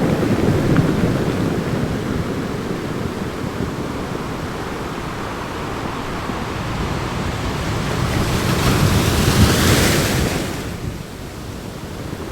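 Rushing noise of surf. It swells as a wave breaks about eight seconds in, then falls away.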